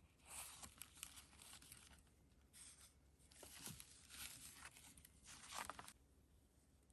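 Paper rustling and swishing as the pages of a handmade junk journal are handled and turned: several soft swishes that stop about six seconds in.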